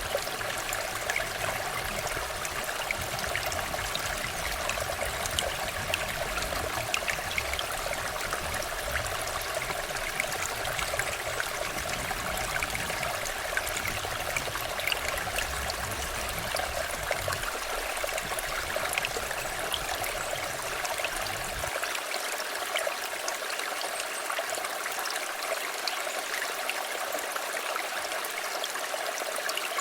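River water flowing over stones, a steady rush with many small splashes and droplet ticks. A low rumble underneath drops away about three-quarters of the way through.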